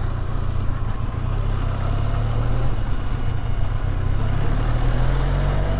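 Benelli TRK 502's 500cc parallel-twin engine running steadily at low revs as the motorcycle is ridden along a rough single-track path, heard from the bike with a low, even drone.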